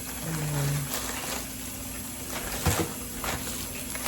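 Household objects being handled: a couple of sharp knocks, like things set down or a cupboard door closing, over a steady low hum.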